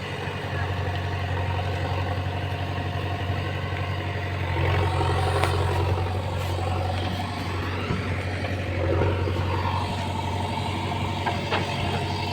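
Heavy diesel engine running steadily, swelling a little about five seconds in, with a few faint knocks over it.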